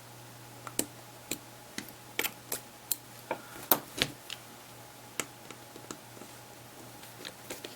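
Small tools clicking and tapping against the opened Samsung Galaxy Player 5.0's housing and flex-cable connectors: about a dozen sharp, irregular clicks, most in the first five seconds, with a few faint ones near the end.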